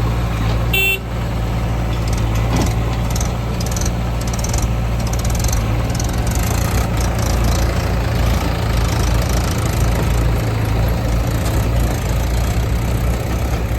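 Heavy diesel machinery engine running steadily, with a brief high-pitched beep about a second in.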